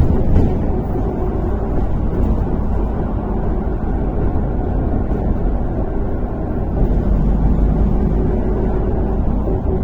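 MAZ-103 city bus heard from inside the passenger cabin while driving: a steady low rumble of engine and road noise. A faint engine hum fades in the middle and comes back near the end.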